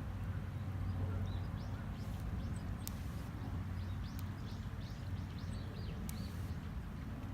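Outdoor ambience: a steady low rumble, with small birds chirping in a run of short high notes between about one and six seconds in, and two sharp clicks, one about three seconds in and one about six seconds in.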